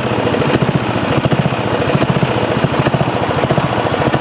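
Sears Companion riding lawn tractor's engine running steadily, with a rapid even firing pulse.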